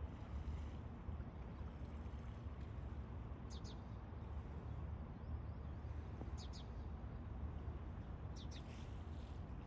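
Quiet outdoor ambience: a steady low rumble of wind on the microphone, with a bird giving short double chirps three times.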